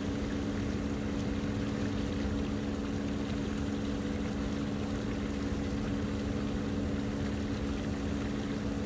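A steady low mechanical hum of a few fixed pitches over a constant wash of noise, unchanging throughout, like a running motor or engine.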